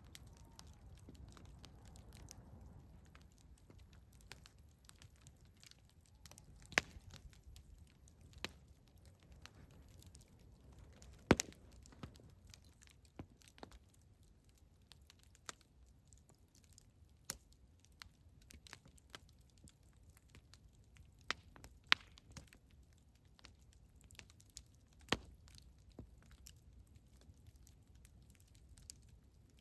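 Campfire crackling: irregular sharp pops and snaps from burning wood, a few of them much louder than the rest, over a faint low rumble.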